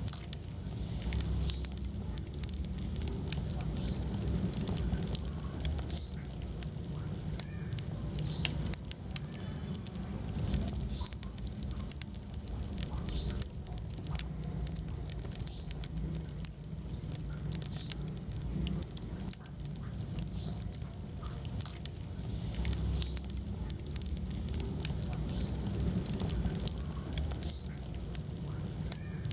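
Wood fire burning in a fireplace, crackling with many small irregular pops over a low steady rumble of the flames.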